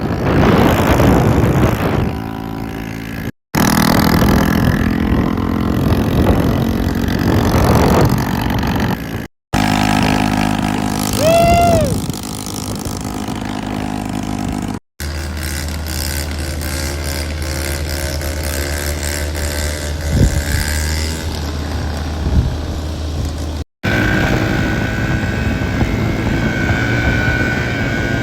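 Engine and vehicle running sounds, spliced from several short clips with abrupt cuts between them; one clip has a brief rise and fall in pitch about eleven seconds in.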